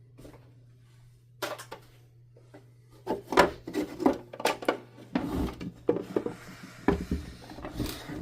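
Hard plastic parts of a canister vacuum being handled during disassembly: a run of irregular clicks and knocks, joined about five seconds in by rubbing and shuffling as the parts are moved.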